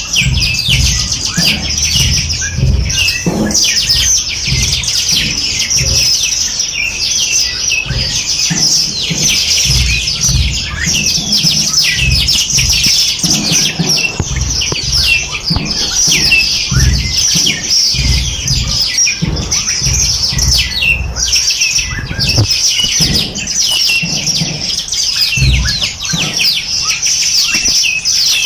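Many small birds chirping and trilling together in a dense, unbroken chorus, with irregular low thumps or rumbles underneath.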